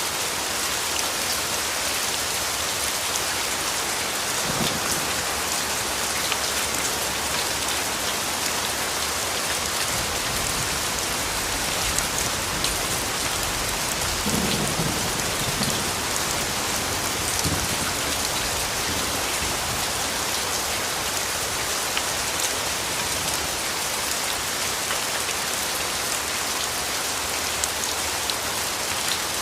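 Steady rain falling on leaves and ground, with a low rumble of distant thunder rising and fading in the first half.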